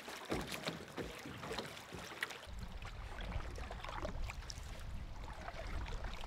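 Canoe on open water: small splashes and knocks of water against the hull. From about two and a half seconds in, wind rumbles on the microphone.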